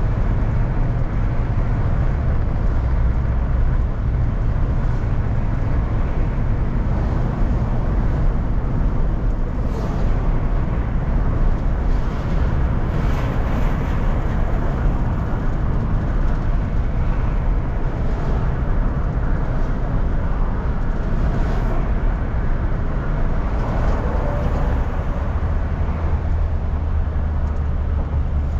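Car cabin noise while driving: a steady low engine hum under the rush of tyres on the road.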